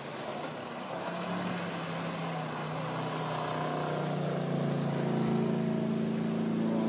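Motorboat engine running and growing steadily louder, its pitch rising partway through.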